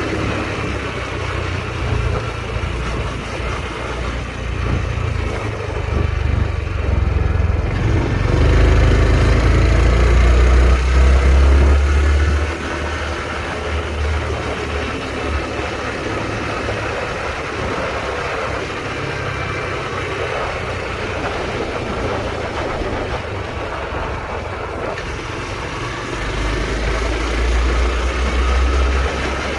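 Honda Trail 125's single-cylinder engine running under way on the road, its note rising and falling. A deep low rumble swells about a third of the way in and again near the end.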